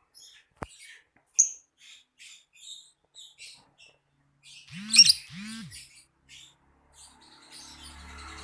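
Lovebird chirping in a quick run of short, high calls, with one sharp louder chirp about a second and a half in and a loud burst of calls around five seconds in, over two low swooping tones. A soft noisy rustle builds near the end.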